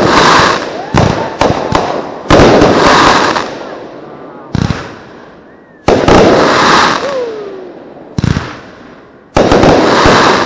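AFW Solar Rain 500-gram consumer fireworks cake firing: shots go off with loud reports every one to three seconds, each trailed by a fading crackle from the crackling gold willows.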